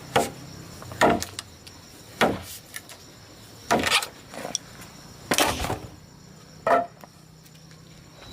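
Firewood being chopped: about seven blows, unevenly spaced about a second or so apart, some with a short splintering crack after the hit.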